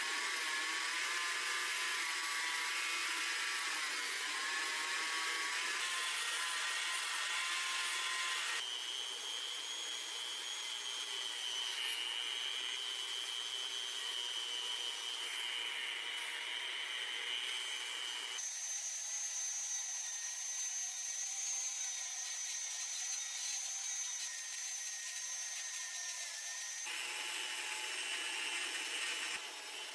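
Workshop power tools running: a steady high-pitched whine over a hiss, changing in pitch and character abruptly several times.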